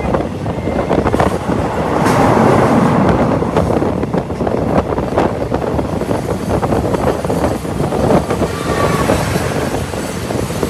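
Passenger train coach running along the track, heard from an open window: a steady rumble and clatter of the wheels over the rails with rushing air, swelling louder for a couple of seconds about two seconds in.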